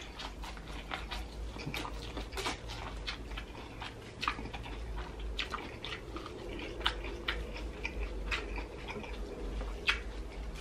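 Close-miked biting and chewing of fresh corn on the cob: many small, irregular crisp clicks and pops as the kernels are bitten off and chewed.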